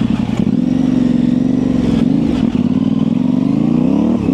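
Yamaha Ténéré 700's parallel-twin engine running steadily at low revs under light throttle. Its pitch dips a little about halfway through and rises again near the end.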